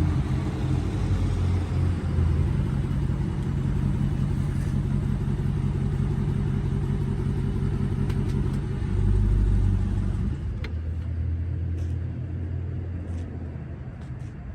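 Dodge Charger 392 Scat Pack's 6.4-litre HEMI V8 rumbling through an exhaust with the mid-muffler and resonators deleted but the catalytic converters kept. It holds a steady deep drone, swells briefly about nine seconds in, then eases off and fades.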